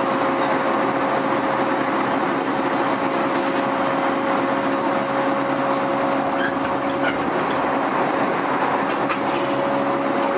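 Electric commuter train standing at a station, giving a steady hum with a held tone from its running equipment and a few faint clicks.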